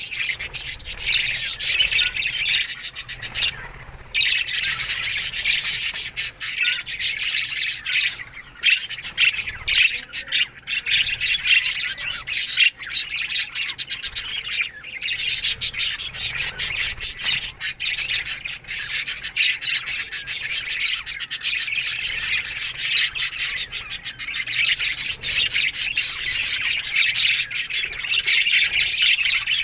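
A flock of budgerigars chattering and chirping continuously, many birds calling at once, with a few brief lulls.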